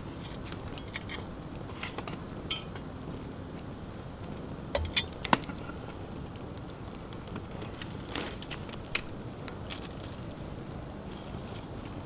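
Wood campfire crackling and popping, with a few louder sharp snaps or knocks about five seconds in and again about eight seconds in.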